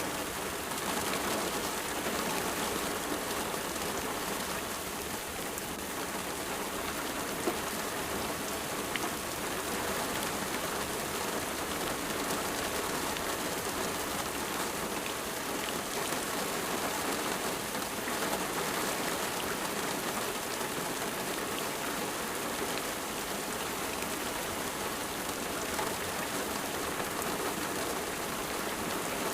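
Steady rain falling and pattering on a surface, an even wash of drops with a few sharper single ticks now and then.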